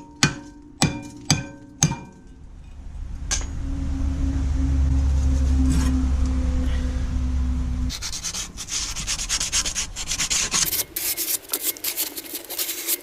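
Metal hammer blows on a rear brake disc, each one ringing, about four in the first two seconds, knocking the disc off the hub. After a low steady hum of a few seconds, rapid rasping scraping follows as the wheel hub is scraped clean.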